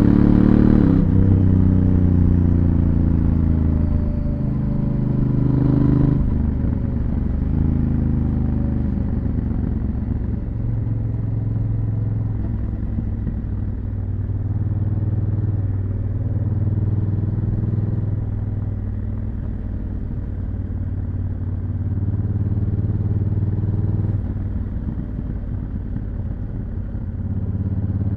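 Honda Africa Twin CRF1000L's parallel-twin engine through its stock exhaust while riding, the revs rising and falling: a surge near the start and another about six seconds in, steadier running through the middle, and the revs climbing again near the end.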